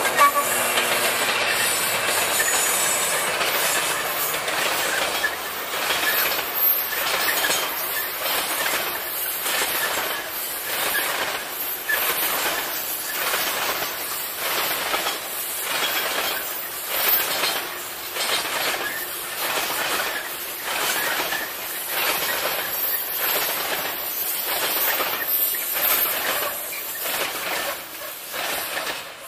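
Freightliner coal train's hopper wagons rolling past, their wheels clattering over the rail joints in a steady rhythm of about one and a half beats a second, with a faint high wheel squeal. The diesel locomotive is loudest at the very start, and the clatter fades near the end as the train draws away.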